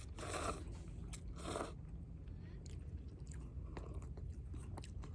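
Eating sounds close to the microphone: two short noisy bites or slurps about a second apart, then quieter chewing with small clicks, over a steady low rumble.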